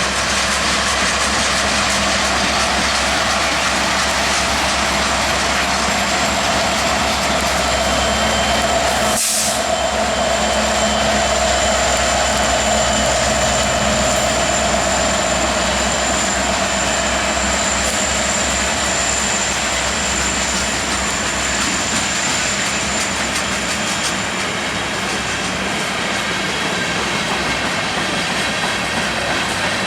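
Canadian Pacific freight train rolling past on the rails, a loud steady noise of cars going by. A thin high squeal comes in about eight seconds in and fades away some fourteen seconds later.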